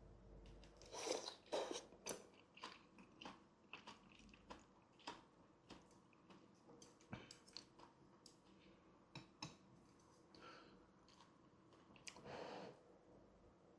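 Close-miked chewing of soft boiled wontons in broth: many small wet mouth clicks at an irregular pace, with a couple of louder bites about a second in and a longer, louder mouthful near the end.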